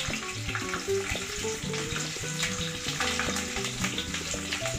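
Oil sizzling steadily in a nonstick kadai as fennel seeds, garlic and ginger fry, stirred with a wooden spatula, over background music.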